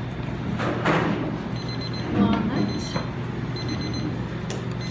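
Kitchen background noise: a steady low hum, with a faint high electronic tone that comes and goes. There is a short clattering rustle about a second in and a faint voice about two seconds in.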